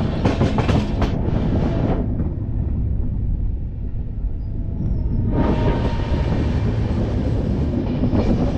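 Passenger express train running, heard from an open coach doorway: a steady low rumble of wheels on rails, clattering over rail joints in the first couple of seconds. The high rushing hiss dies down for about three seconds mid-way, then comes back.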